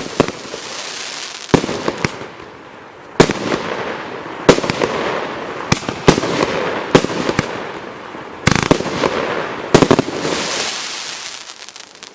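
A 54-shot consumer fireworks cake (F3 battery) firing: sharp bangs every second or so, each followed by a dense crackling hiss. It dies away near the end as the cake finishes.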